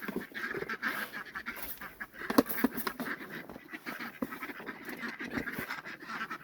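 Domestic ducks quacking, a rapid run of short calls, with a few sharper clicks among them.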